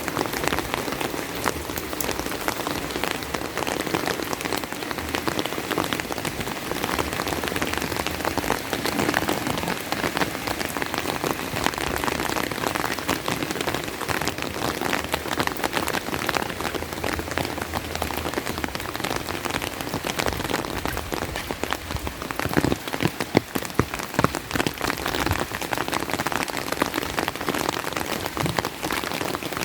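Steady rain falling, with a dense close patter of drops; a few louder drops stand out a little past the middle.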